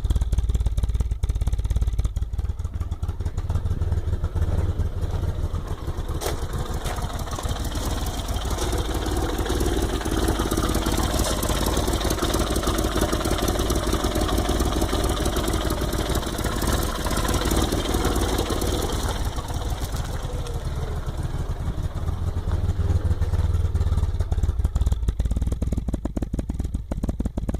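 1978 Mini Clubman's A-series four-cylinder engine running on its first start after fifteen years laid up. It goes steadily, with a busier, higher note through the middle stretch before settling back.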